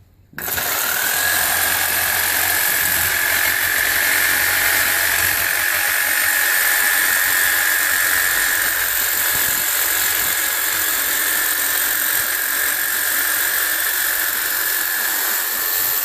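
Electric power tool cutting: the motor starts abruptly, its high whine rising as it spins up, then it runs steadily with a loud hiss of cutting noise.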